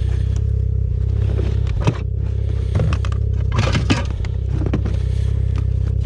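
Ski-Doo Expedition snowmobile engine running steadily at low revs, with a few short scraping, crackling knocks about two, three and four seconds in.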